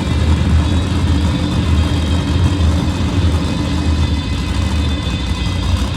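Monster truck's supercharged V8 engine running steadily during a freestyle run, a heavy low engine sound without sharp revs or impacts.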